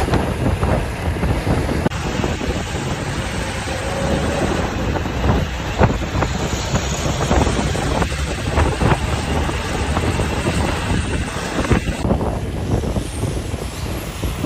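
Loaded truck driving on a highway: a dense, steady rumble of engine and road noise with scattered knocks and wind buffeting the microphone.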